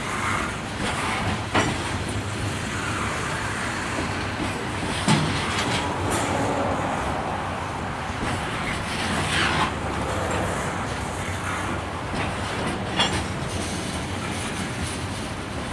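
Coal hopper cars of a freight train rolling past, their steel wheels making a steady noise on the rails, with four sharp clanks spaced a few seconds apart.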